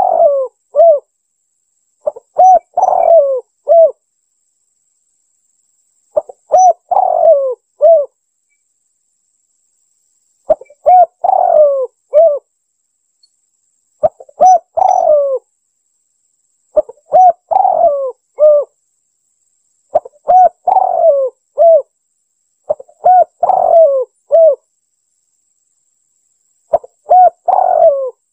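Spotted dove (tekukur) cooing phrases, repeated about every three to four seconds with silence between. Each phrase has a few short coos, a longer falling coo in the middle, and a closing coo. This is a lure call recording of the kind used to draw in wild doves.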